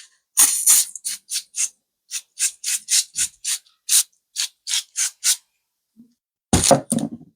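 A run of short, sharp scraping clicks, roughly three a second, from work on the laptop's casing, then a louder clatter near the end.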